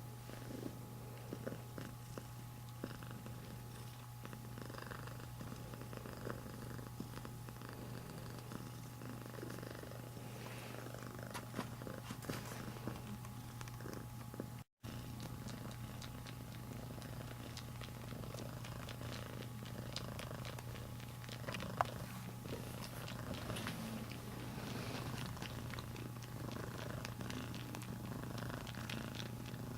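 Domestic cat purring steadily while suckling on a blanket, with many small soft clicks of sucking over the purr. The audio drops out for an instant about halfway through.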